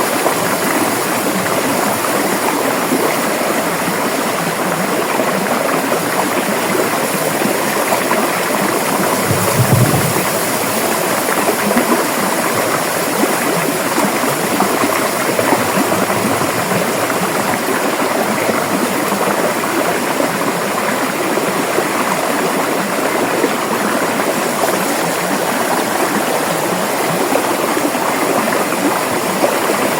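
River water flowing steadily, an even, continuous rush. About ten seconds in there is a brief low rumble.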